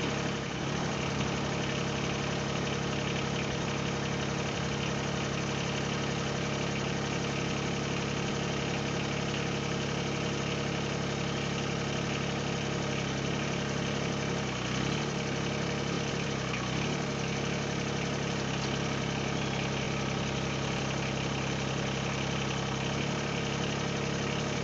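Mahindra eMax 20S HST compact tractor's diesel engine idling steadily.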